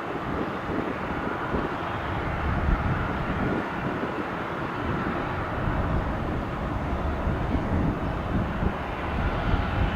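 Boeing 757-300 airliner's jet engines at takeoff power during its departure climb, a steady rumble.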